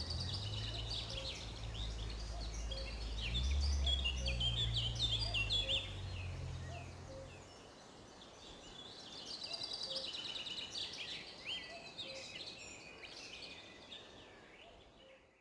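Small songbirds chirping and singing in a busy, overlapping chorus. A low rumble runs underneath until about halfway through. The birdsong thins out near the end.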